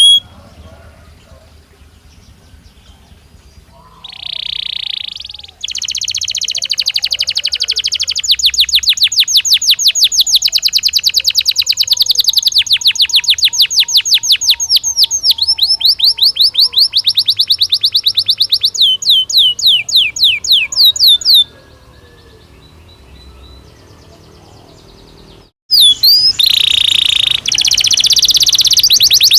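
Belgian (domestic) canary singing. After a short buzzing note, a long loud run of rapid repeated trill notes changes through several phrases and ends in falling sweeps. After a pause of a few seconds, the song starts again near the end.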